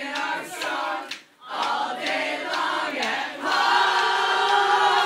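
A group of voices singing together, breaking off briefly about a second and a half in, then holding a loud sustained note from about three and a half seconds in.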